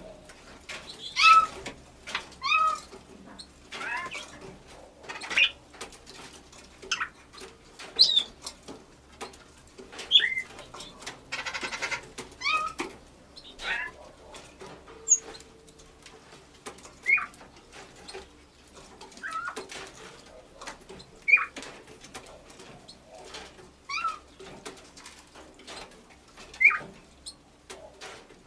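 Pet bird imitating a cat, giving short meow-like calls every couple of seconds, about fourteen in all. There is a brief buzzy rattle just before the middle.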